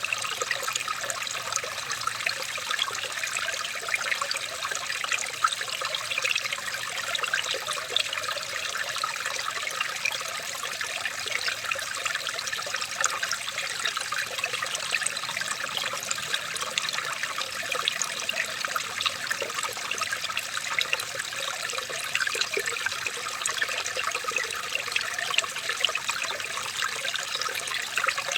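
Running water trickling and babbling steadily, like a small stream, with many small splashes and gurgles and no pauses.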